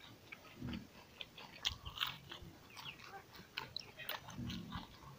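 A person chewing food with the mouth, irregular wet smacks and crunches.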